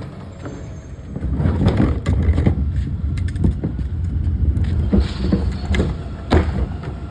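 Garbage truck running close by, its low engine rumble getting much louder about a second in, with several sharp knocks and clanks over it.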